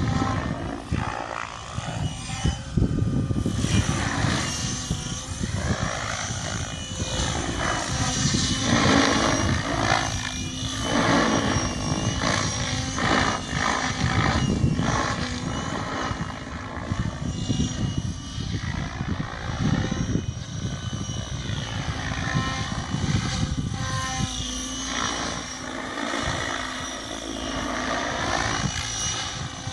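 Electric Mikado Logo 600 remote-control helicopter in 3D flight: the rotor blades chop and the motor whine sweeps up and down in pitch as it swoops back and forth, growing louder and softer with each pass.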